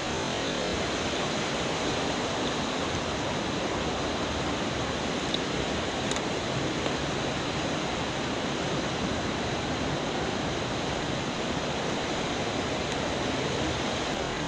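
A mountain stream rushing over rocks: a steady, even hiss of running water.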